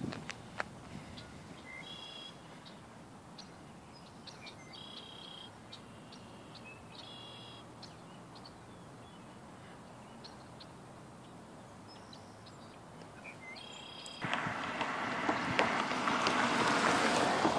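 A songbird calling in short, repeated phrases a few seconds apart over a faint hiss. About fourteen seconds in, a loud, even rush of noise suddenly takes over.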